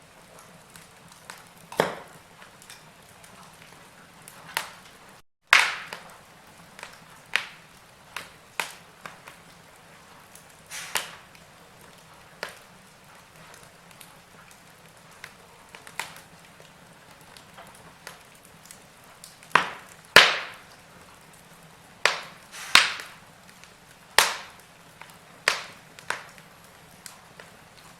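Wood fire in a fireplace crackling: irregular sharp pops and snaps from the burning logs over a soft hiss, with the loudest pops about twenty seconds in. The sound drops out completely for a moment about five seconds in.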